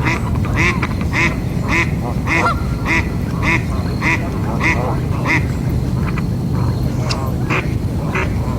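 Duck quacking in a steady series of short calls, about one every half second, which become sparser and irregular after about five seconds, over a steady low rumble.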